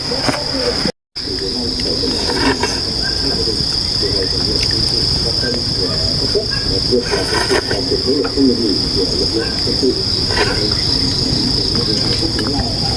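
Rainforest insects droning steadily in one continuous high-pitched note, with irregular lower sounds beneath. The sound cuts out completely for a moment about a second in.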